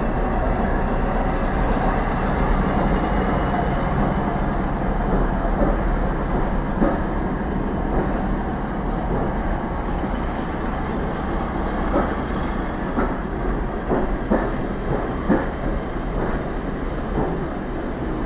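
Railway passenger coaches rolling slowly past, a steady rumble with their wheels clicking over rail joints. The clicks come irregularly and grow more distinct in the second half.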